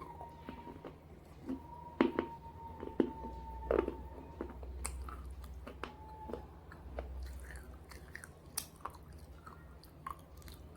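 Pieces of slate coated in red gravy being bitten and chewed close to the microphone. There are several sharp crunches in the first four seconds, then lighter, scattered chewing crunches.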